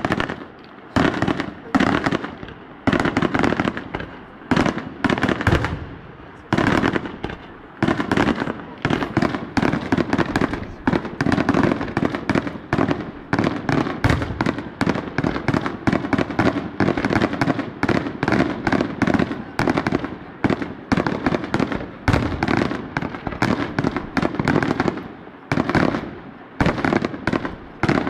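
Fireworks going off in a rapid, continuous barrage of sharp bangs, several a second, with only brief lulls.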